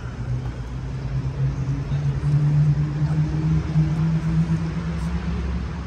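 A car engine running close by, its pitch rising over the first couple of seconds as it pulls away, then holding steady. It is loudest in the middle and eases off near the end.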